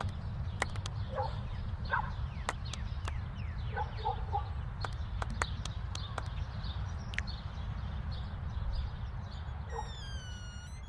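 Small birds chirping over a steady low rumble, with scattered sharp clicks.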